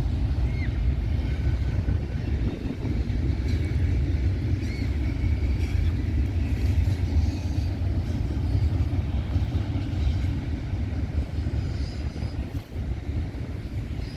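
Norfolk Southern double-stack freight train rolling past, a steady rumble of wheels on rail.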